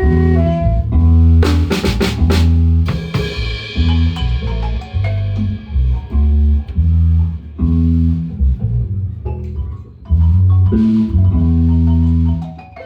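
A Guatemalan marimba band plays: a bass line and marimba over a drum kit. A quick drum fill comes about a second and a half in, ending in a cymbal crash that rings on.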